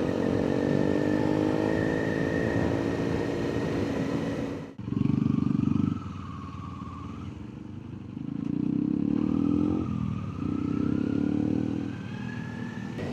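Kawasaki Ninja 400 parallel-twin engine running through its quiet stock muffler while riding. The engine note falls slowly in pitch for about four seconds, breaks off briefly, then climbs again in the second half, with a short drop in pitch between two rises.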